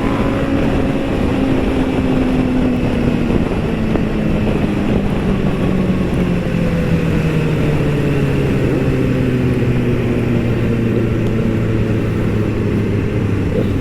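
Motorcycle engine running under way, its note falling slowly and evenly as the bike eases off, over steady wind and road noise.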